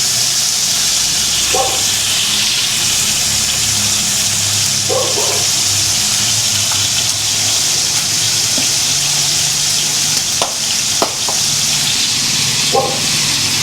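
Chicken wings sizzling as they brown in a frying pan, a steady hiss of hot oil, with a few light clicks about ten to thirteen seconds in.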